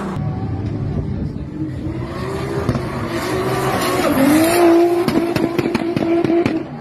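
Turbocharged 2JZ straight-six in a Nissan Laurel drift car held at high revs while the rear tyres spin and squeal. The engine note wavers, dips and climbs again about four seconds in.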